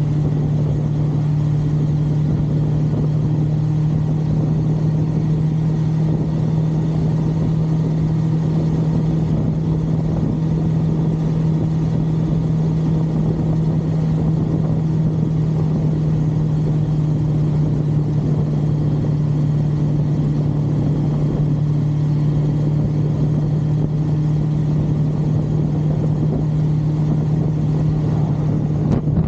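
1982 Suzuki GS550L's air-cooled inline-four engine running at a steady cruising speed, its pitch holding constant, under a steady rush of noise.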